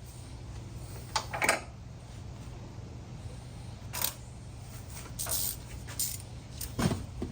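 Metal hand tools clinking and knocking on engine parts: about six separate sharp clicks, the loudest about one and a half seconds in and near the end, over a steady low hum.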